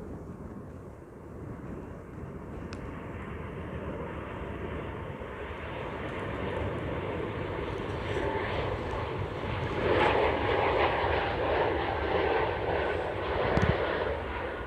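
Airliner's engines growing steadily louder as the plane passes, loudest from about ten seconds in, with wind rumbling on the microphone underneath.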